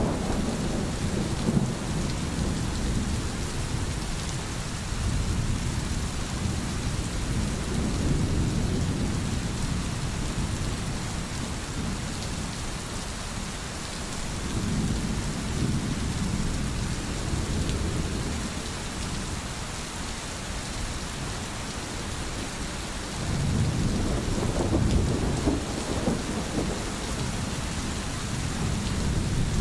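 Steady heavy rain with low rumbles of thunder that swell and fade several times.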